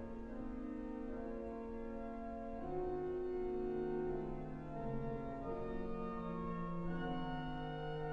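Sanctuary organ playing soft sustained chords that change every second or two, just after a loud full chord has died away in the room's reverberation.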